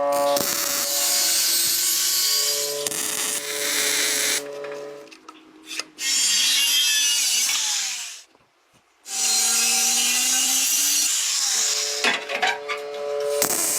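Power tool working on metal with a harsh hissing noise that stops briefly twice, over background music.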